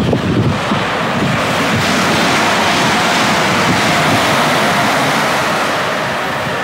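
Class 345 electric train passing close at speed: a loud, steady rush of wheel and air noise that begins to fade near the end.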